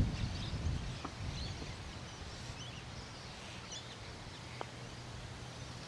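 Quiet open-air ambience with faint, scattered bird chirps. A single soft tick about three-quarters of the way in: a putter striking a golf ball.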